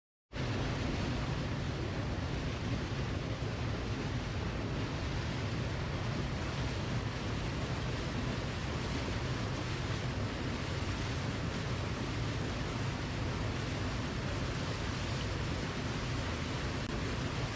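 Waterfall: a steady, even rush of falling water that cuts in suddenly just after a moment of silence.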